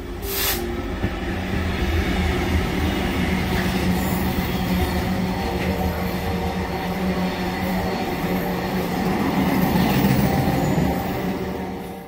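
Class 66 diesel freight locomotive, with its two-stroke EMD V12 engine running, passes close by, followed by a long string of intermodal container wagons rolling past over the rails.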